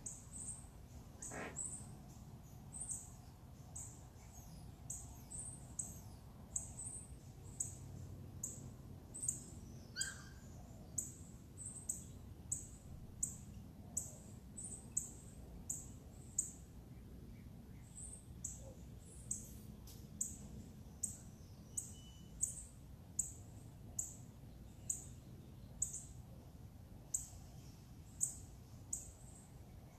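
A bird repeating a short, very high chirp at a steady pace, a little more than once a second, with one brief lower call about ten seconds in.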